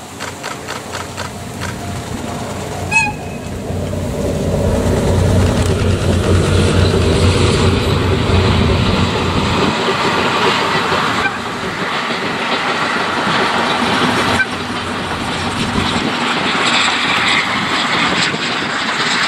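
A train led by a DE10 diesel-hydraulic locomotive, with coaches and a D51 steam locomotive behind, passing by: a short toot about three seconds in, then the diesel's engine drone swelling for several seconds, followed by the steady rumble of the coaches and the steam locomotive rolling past.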